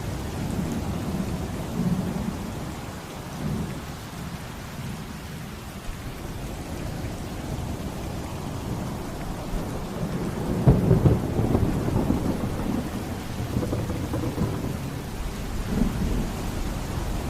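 Steady heavy rain with rolling thunder rumbling underneath, swelling to a louder peal of thunder about eleven seconds in.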